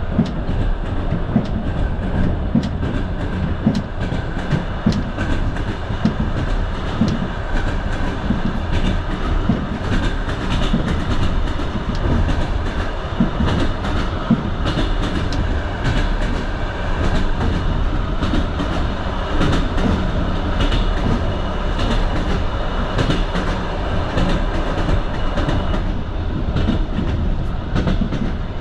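Passenger train carriage running at speed: a steady rumble with frequent clicks of the wheels over the rail joints.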